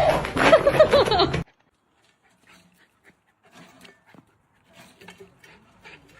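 A dog's long, wavering cry that cuts off abruptly about a second and a half in, followed by faint, scattered small sounds.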